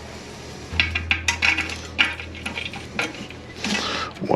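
Metal toilet tank bolts, nuts and washers clinking and tapping as they are handled and fitted, a quick run of small sharp clicks, over a steady low hum.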